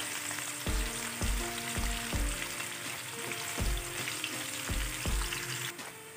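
Sliced onions sizzling as they fry in hot oil in a pan, a steady hiss. Background music with a steady beat plays under it, about two low thumps a second.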